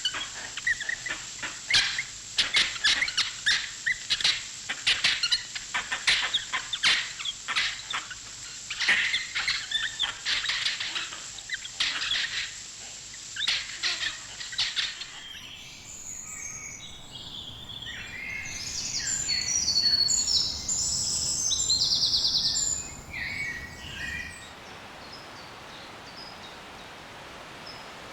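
Birds calling in tropical ambience: a fast, dense run of sharp chirps for about the first half, then a sudden change to a different bird's scattered calls, giving way near the end to a steady hiss of background ambience.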